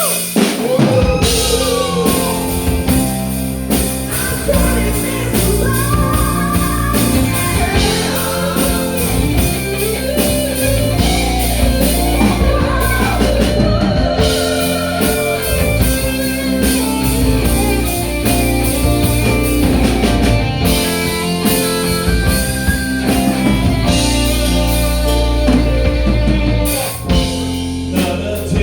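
Rock band playing: drum kit and bass keep a steady beat under a gliding, bending lead melody.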